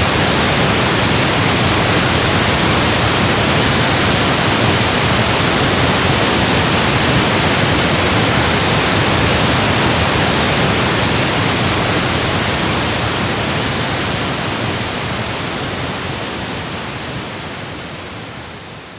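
Electronically generated pink noise: a steady, even hiss with nothing else in it, fading out gradually through the second half.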